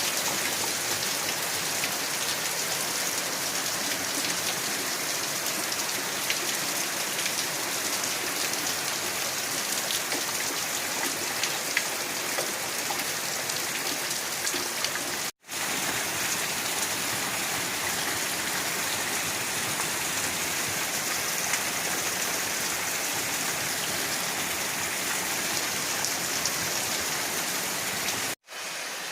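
Heavy rain falling, a dense steady hiss of drops, cut off twice for an instant, once midway and once near the end.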